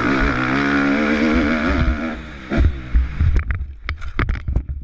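Dirt bike engine running with a wavering pitch, dying away about two seconds in. A series of sharp knocks and clatters follows over a low rumble.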